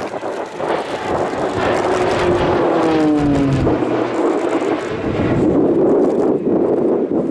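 Display aircraft flying past with loud engine noise. A set of tones drops in pitch about three seconds in as it goes by.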